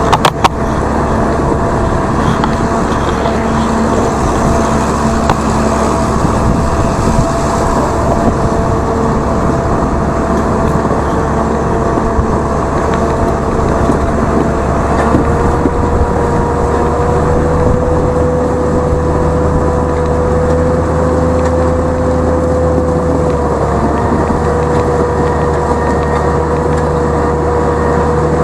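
Tractor engine running steadily while driving over icy ground. Its pitch rises a little about halfway through and dips briefly later. A few sharp knocks come right at the start.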